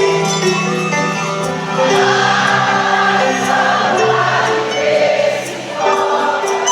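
Live sertanejo music from a band, with many voices singing together over held chords.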